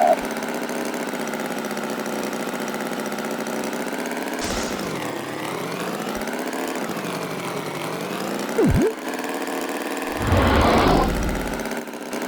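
Cartoon engine sound effect running steadily with a wavering drone. A short sliding down-and-up whistle comes near nine seconds, and a louder rough burst follows about a second later.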